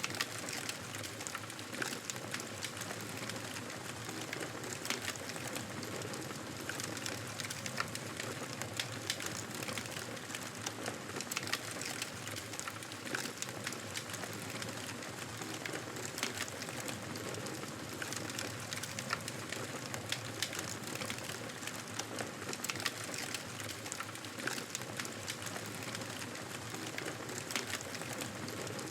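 Wood fire crackling in a fireplace: a steady soft hiss with frequent small, sharp pops and snaps.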